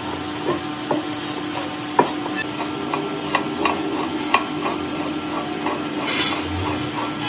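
Metal parts clinking and tapping irregularly over a steady machine hum, with a short hiss about six seconds in.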